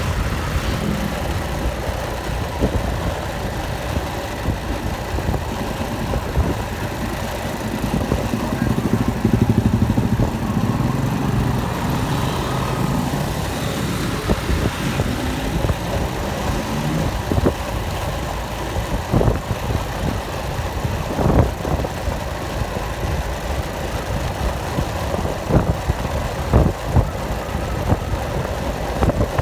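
An engine running steadily with a low rumble, rising into a louder hum about a third of the way through. Several sharp knocks come in the second half.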